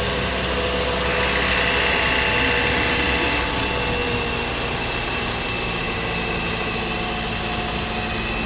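Car engine running steadily, a continuous mechanical noise with a faint steady whine through it.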